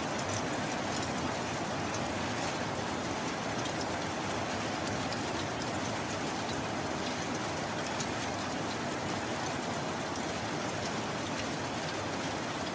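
Steady rain falling: an even hiss with scattered small ticks of single drops striking, and no thunder.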